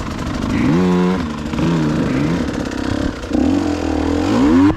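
Dirt bike engine revving up and down on the throttle, its pitch rising and falling several times, with the biggest climb near the end.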